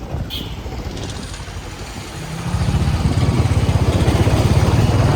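Motorcycle engine running with a rapid low pulsing beat, growing much louder about two seconds in.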